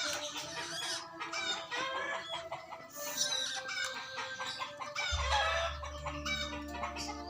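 Young long-tailed shrike (cendet) singing a rapid, varied chatter of short chirps and clucking notes. A low steady hum joins about five seconds in.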